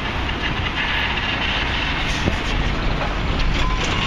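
Busy street and construction-site noise: a steady low rumble of heavy vehicle engines and traffic, with a sharp knock a little past halfway and a few short metallic clatters near the end.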